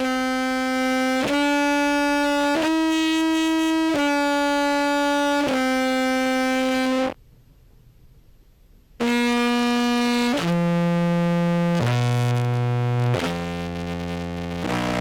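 Contrabass clarinet played through a fuzz and compressor pedal chain, with the compressor's blend knob being added in. It holds five long notes one after another, stops for about two seconds, then plays a lower run of notes stepping down into the deep bass and back up.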